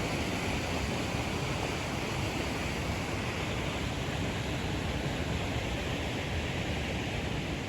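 Steady rush of falling water from a waterfall after heavy rain.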